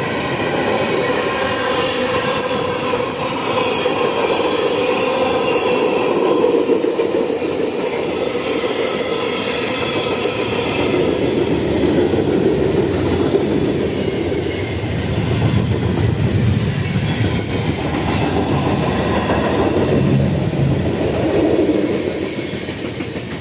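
Freight train rolling past at trackside, wheels clattering steadily over the rails.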